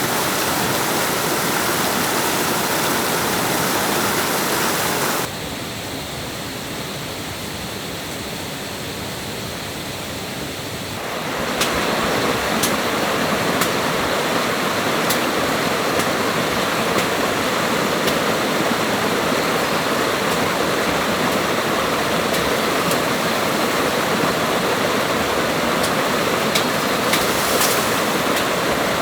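Water rushing in a jungle stream, a steady hiss. It drops suddenly quieter about five seconds in and comes back to full strength about six seconds later. A few faint clicks sound in the second half.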